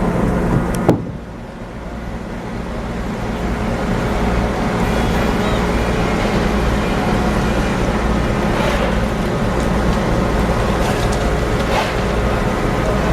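A heavy engine or machinery drone running steadily, with a sharp knock about a second in. After the knock the drone drops for a moment, then builds back up. A few light clatters follow later.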